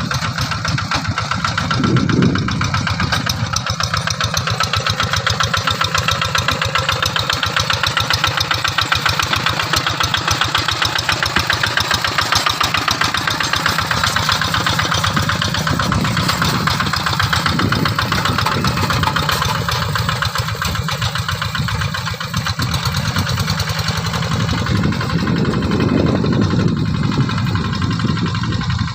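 Quick G3000 two-wheel hand tractor's single-cylinder diesel engine running steadily with a fast, even thumping while it pulls a plough, swelling briefly a few times as the load or throttle changes.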